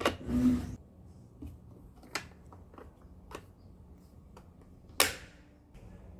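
Scattered light plastic clicks and taps from handling a robot vacuum's parts, with one sharp snap about five seconds in. A short low-pitched burst sounds at the very start.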